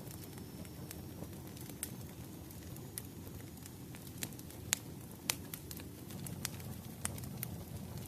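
Firewood burning: a steady low rumble of flames with sharp crackles and pops scattered irregularly through it, the two loudest pops a little before and a little after five seconds in.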